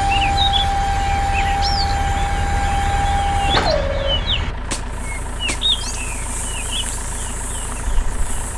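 Birds chirping in short calls over a steady low rumble. A steady high tone holds for the first three and a half seconds, then slides down in pitch and fades.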